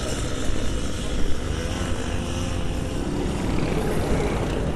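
Small petrol engines of racing lawnmowers droning together, their pitch wavering up and down as they run.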